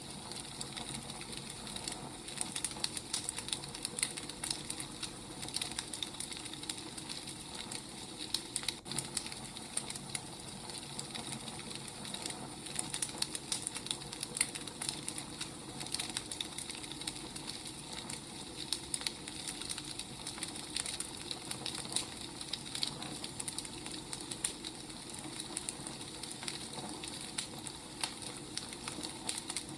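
Wood fire crackling: irregular pops and snaps over a steady soft hiss.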